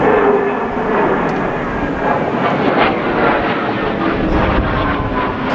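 Fighter jet engine noise, loud and steady, with a few faint whining tones that slowly drop in pitch.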